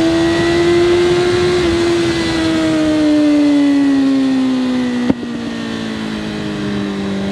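Sportbike engine running at high revs under way, its pitch holding and then slowly easing down. A sharp click comes about five seconds in, after which the engine note is lower and quieter.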